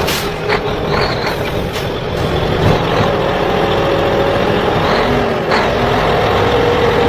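Steady running of a toy truck's motor, with a droning whine that rises slightly in pitch; a few light clicks early on.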